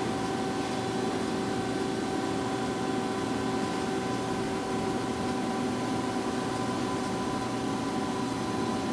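Lucas 542B-84 CNC horizontal boring mill running as its W axis traverses in and out: a steady machine hum with several fixed whining tones, unchanging throughout.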